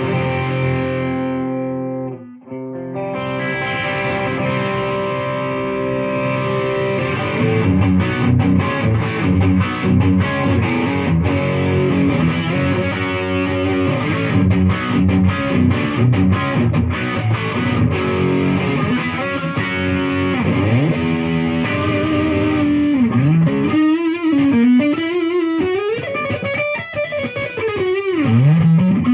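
Gibson Custom Shop Les Paul Custom electric guitar played through distortion: held chords first, with a brief break about two seconds in, then quicker picked notes, and near the end notes sliding up and down in pitch.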